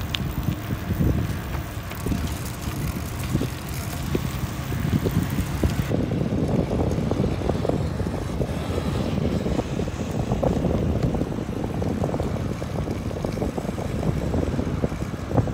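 Wind buffeting the microphone while riding a bicycle, a gusty low rumble.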